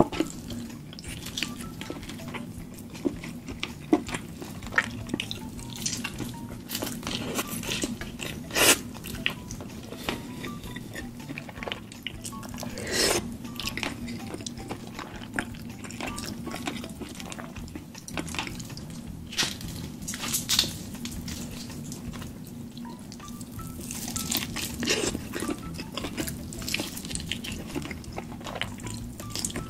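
Close-miked eating: wet chewing and lip smacking, with scattered sharp clicks and smacks.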